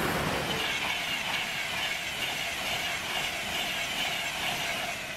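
Class 91 electric locomotive and its coaches of an InterCity 225 passing at speed: a steady rush of wheels on rail with a hiss, loudest as the locomotive goes by at the start and easing slightly as the coaches follow.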